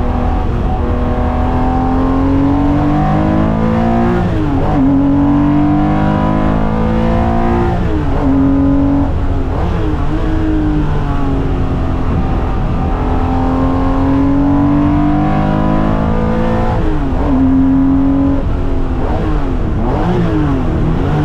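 Air-cooled Porsche flat-six race car engine under hard acceleration on track. It runs continuously, its note climbing through the revs and dropping sharply at each gear change, several times over.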